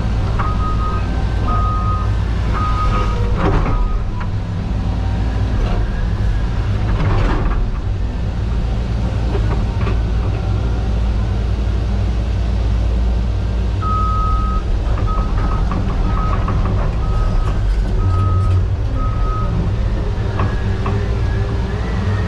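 CAT 320 GC excavator's four-cylinder diesel engine running steadily under work, with a few clanks. A backup alarm beeps in two spells, one at the start and another a little past the middle.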